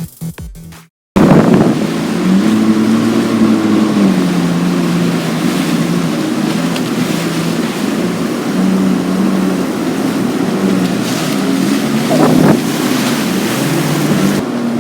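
Jet ski engine running at speed, its pitch rising and falling with the throttle, with wind buffeting the microphone.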